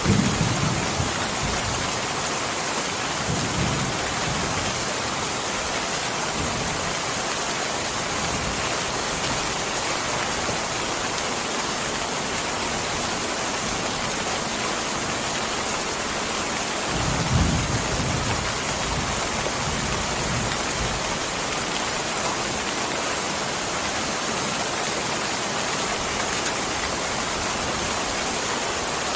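Steady heavy rain hissing, with low rolls of thunder at the start, a few seconds in, and a louder one about halfway through.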